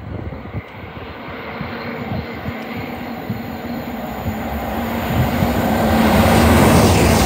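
Great Western Railway Intercity Express Train (Class 800-series) approaching at speed on the main line, its rumble and rail noise growing steadily louder as it nears, with a steady hum underneath.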